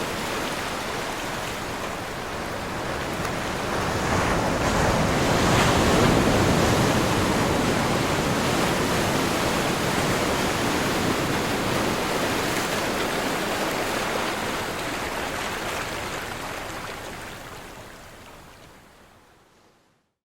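Ocean surf: waves breaking and washing in a steady rush that swells to its loudest about five seconds in, then slowly fades away to silence near the end.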